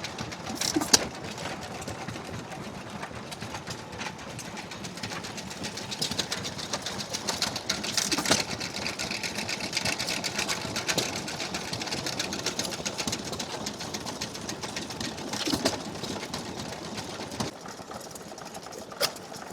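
Restored 4 hp Grey hit-and-miss engine running on a buzz coil: a fast, steady mechanical clatter with a louder knock every few seconds.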